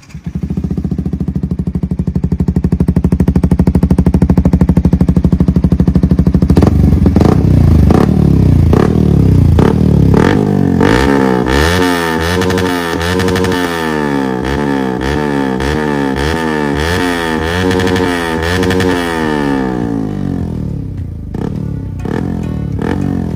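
Yamaha R15 V3's 155 cc single-cylinder engine through an aftermarket Akrapovic exhaust: it runs steadily for the first few seconds. For about ten seconds after that, the throttle is blipped over and over, the pitch rising and falling about once a second.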